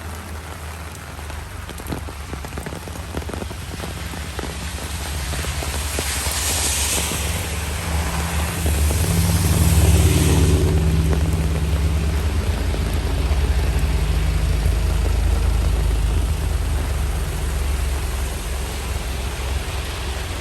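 Heavy rain pouring down with a steady low rumble underneath. It grows louder toward the middle, peaking about ten seconds in, then eases slightly.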